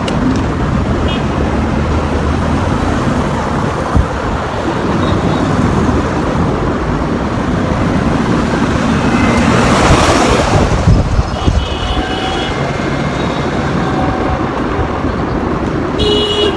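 Steady road traffic noise with wind buffeting the microphone in a sandstorm; one vehicle passes close, loudest about ten seconds in.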